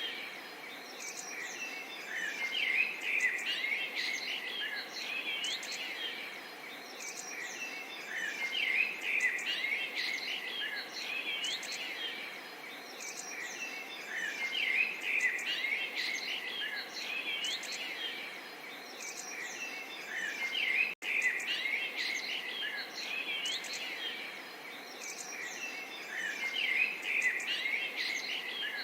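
Small songbirds chirping and twittering in busy swells about every six seconds, over a soft steady murmur of running water. There is a very brief dropout in the sound about two-thirds of the way through.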